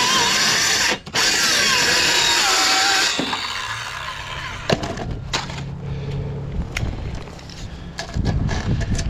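Strong wind gusting over the microphone with whistling tones for about three seconds. Then a cordless power driver hums for a few seconds among scattered clicks and knocks of screws and roofing panels, and the wind rumble picks up again near the end.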